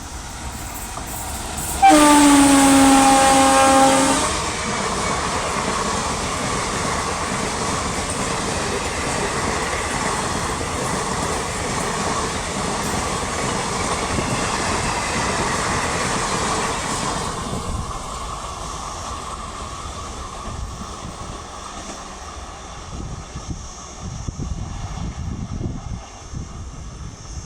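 Passing passenger train: a locomotive horn sounds one loud, steady blast of about two seconds, then the train runs by with a steady rushing rumble that eases off after about fifteen seconds.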